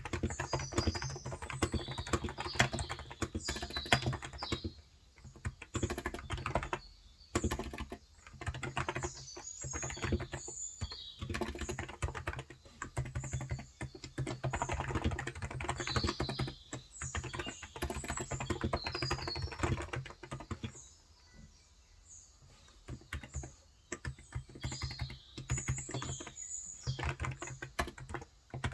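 Steady typing on a Cox Endeavor electro-capacitive (Topre-style) tenkeyless keyboard with 35 g keys: rapid soft key clicks in runs, broken by a few short pauses, the longest a little past the middle. Small birds chirp in the background at several moments.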